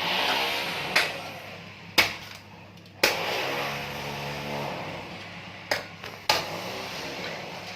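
A coconut being hacked open with a blade: six sharp strikes, four about a second apart and then two closer together near the end, each followed by a short hollow ringing.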